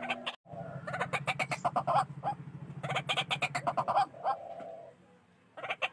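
White-breasted waterhen calling: rapid runs of harsh, repeated notes in two bursts over a low, fast pulsing, then a short pause before the calls start again near the end.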